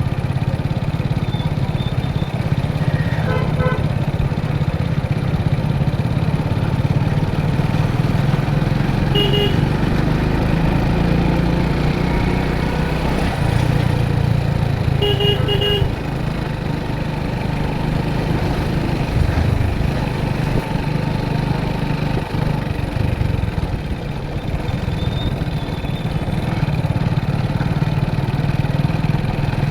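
Motorcycle running steadily on the road with engine and wind rumble, while short vehicle horn beeps sound three times, the last a quick double beep.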